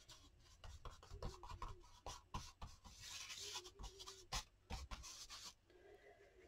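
Faint rubbing and scratching of paper with small taps and clicks, as a cut-out paper picture is handled and pressed down onto a journal page; a longer scratchy rub comes about three seconds in.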